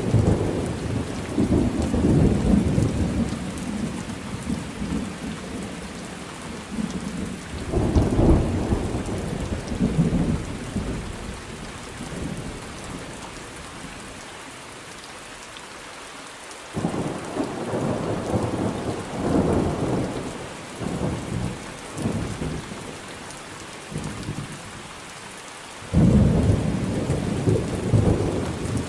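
Thunder rumbling over steady rain. Several long rolling peals, with a lull in the middle, then one starting suddenly about two-thirds of the way in and another loud one near the end.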